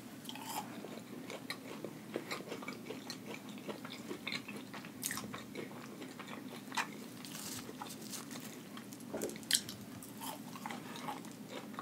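Biting into and chewing a crunchy Flamin' Hot Cheeto-coated fried hash brown: irregular crisp crunches, with a sharper crunch about nine and a half seconds in.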